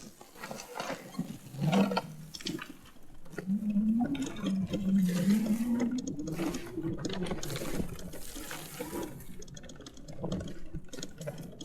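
Electric mini bike ridden over rough ground: a motor whine that rises in pitch as the bike speeds up around the middle, over rushing wind and tyre noise.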